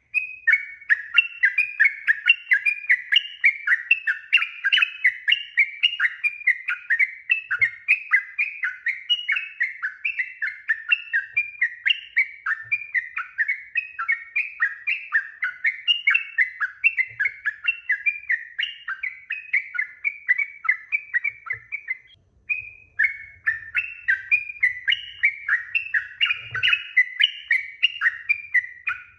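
Yellow-vented bulbul (trucuk) singing a long, fast run of short chattering notes, with one brief break about twenty-two seconds in.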